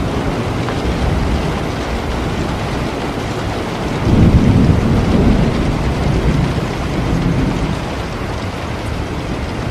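Steady rain, with a low rumble of thunder that swells about four seconds in and fades over the next few seconds.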